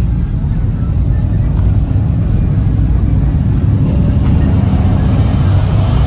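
Steady, loud low rumble of vehicle engines running.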